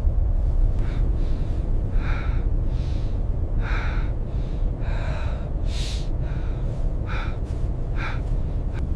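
A person gasping for breath in short, labored gasps, about one a second, over a steady low wind rumble.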